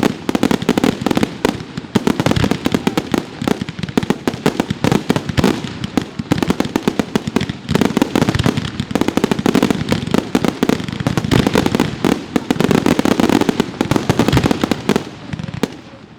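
Fireworks display: a dense, unbroken string of rapid bangs and crackles, thinning out and fading near the end.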